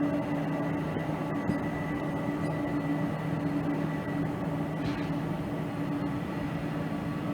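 Steady engine drone, with a low hum and a faint high whine held at a constant pitch.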